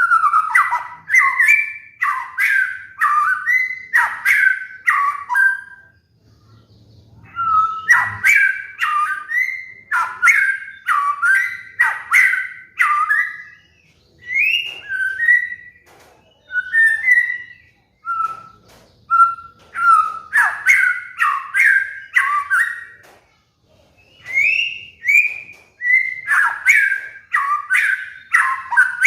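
White-rumped shama (murai batu) singing fast bouts of loud whistled notes, many sliding downward, mixed with sharp clicking notes. The song stops briefly several times between phrases.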